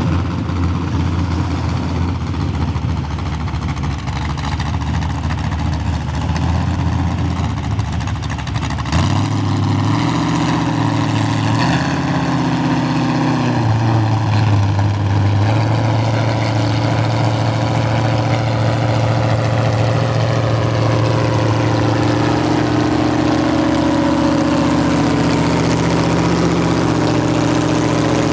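Demolition derby car engine running at a steady idle, loud and continuous; the engine sound changes character abruptly about nine seconds in.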